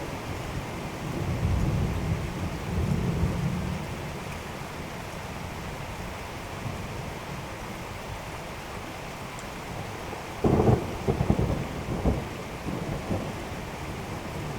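Steady rain with rolling thunder: a low rumble of thunder a second or so in that lasts a few seconds, then a louder, crackling peal about ten seconds in.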